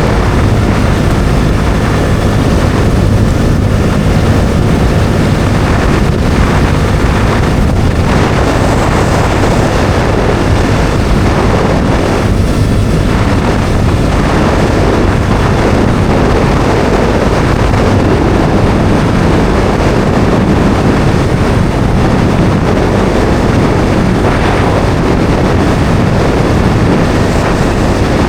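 Bajaj Dominar 400's single-cylinder engine running steadily at riding speed, mixed with heavy wind noise buffeting the microphone.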